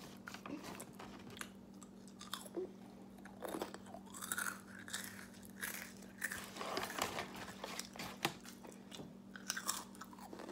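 A person chewing food close to the microphone, with irregular small crunches and mouth clicks.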